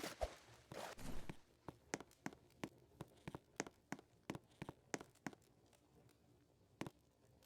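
Footsteps on the forest floor: a run of short crackling steps about two a second at uneven spacing, with a longer rustle in the first second.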